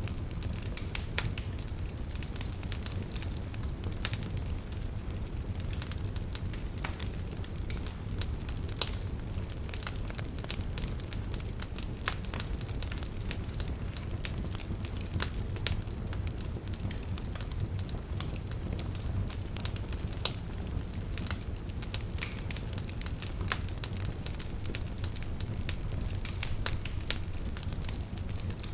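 Wood fire burning in a fireplace: a steady low rumble of flames with frequent irregular crackles and pops, a couple of louder pops along the way.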